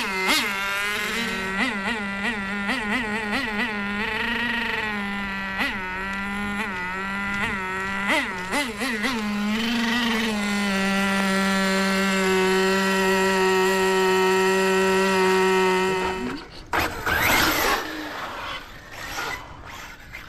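Small nitro engine of an HPI WR8 3.0 RC rally car, through its custom exhaust, buzzing at a high pitch. Over the first ten seconds the throttle is blipped in quick short revs, then the engine holds one steady high note and cuts off about sixteen seconds in, followed by a brief rush of noise.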